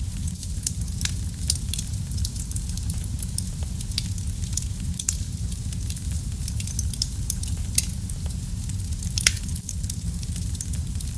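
Wood fire burning in a fireplace: a steady low rumble of flames with many small crackles and pops, a few sharper pops standing out now and then.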